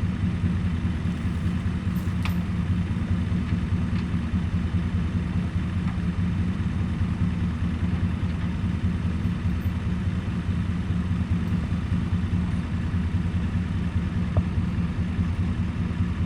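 A vehicle engine idling steadily, a low even drone that holds the same pitch throughout.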